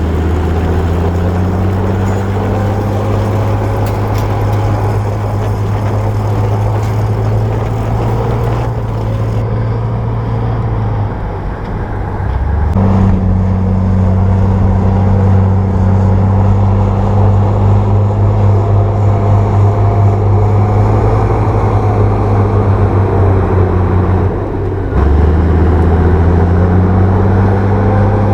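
Bulldozer's diesel engine running steadily under load, with a deep hum. The engine note dips and shifts about 11 seconds in and again near 25 seconds.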